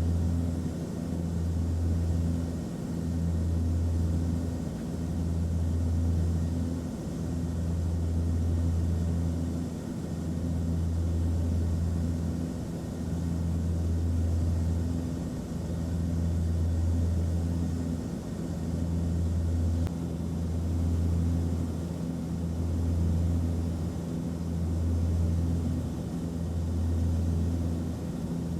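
Airliner cabin noise: a steady low drone of engine and air rumble with a few held low tones, swelling and easing gently about every two seconds.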